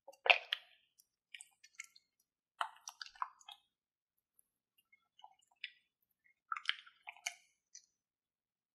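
Slime being squeezed and pressed, giving wet squishy crackles and clicks in several short clusters, the loudest at the very start.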